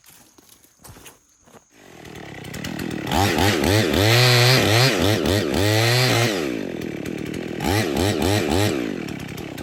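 Two-stroke chainsaw running up: after a few faint knocks it builds from idle and is revved hard from about three seconds in, its pitch rising and falling, then eases back and is revved again briefly near the end, deepening the felling cut in a poplar trunk.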